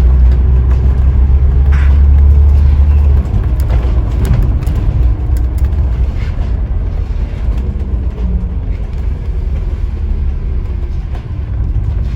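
Onboard sound of a Scania N94UD OmniDekka double-decker bus with its five-cylinder diesel engine running: a heavy low drone under power that drops away sharply about three seconds in, leaving a lower rumble of engine and road noise for the rest of the time.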